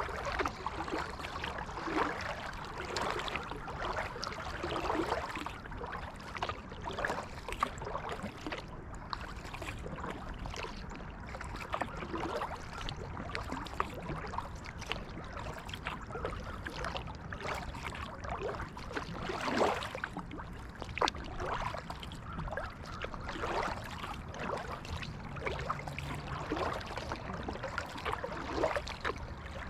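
Kayak paddle strokes: the blades dip and splash in the creek water, with trickling and dripping between strokes, at an irregular, unhurried pace.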